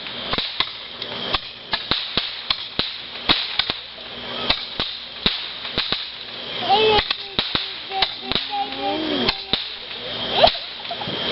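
Consumer fireworks crackling: a rapid, irregular string of sharp pops and cracks.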